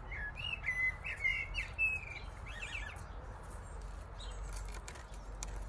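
Birds singing, a run of short whistled chirps in the first three seconds that then fall away, over a low steady background rumble.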